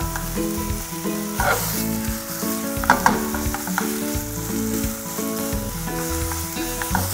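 Chicken mince frying in red curry paste in a hot pan, sizzling steadily, with a metal spoon stirring and knocking against the pan a few times.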